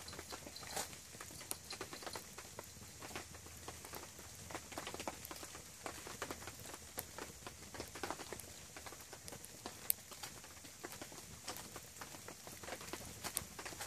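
Wood campfire crackling, with irregular snaps and pops and one sharper pop about ten seconds in.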